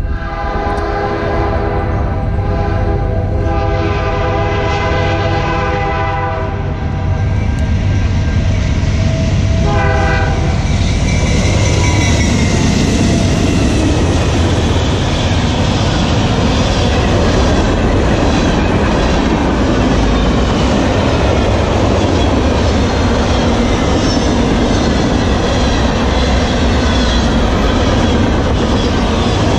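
A CN freight train's locomotive horn sounds in several blasts over the first six seconds and once more briefly about ten seconds in. Then the train passes close by, a loud, steady rumble and clatter of wheels on the rails as tank cars and covered hoppers roll past.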